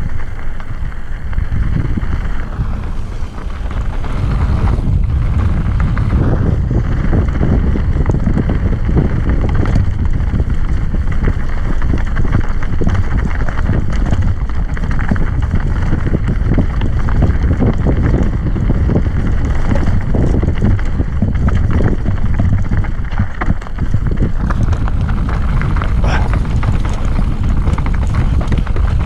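Wind buffeting the microphone over the continuous rattle and rumble of a mountain bike riding fast down a rough, rocky trail.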